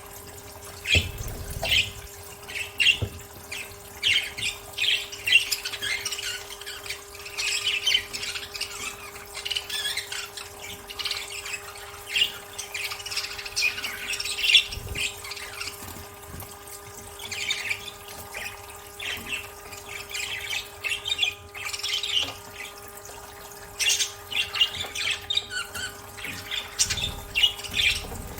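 Budgerigars chirping and squawking in a rapid, continuous chatter of short calls, over a steady low hum.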